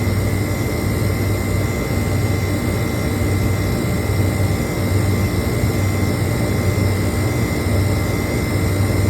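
Refrigeration condensing unit running: a steady mechanical drone with a low hum that swells and fades every second or two and a thin, steady high whine.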